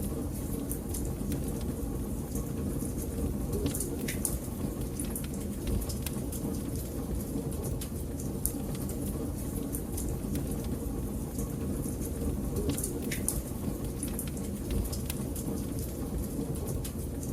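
Wood fire crackling in a fireplace: a steady low roar of flames with scattered sharp snaps and pops, a couple of stronger pops about four and thirteen seconds in.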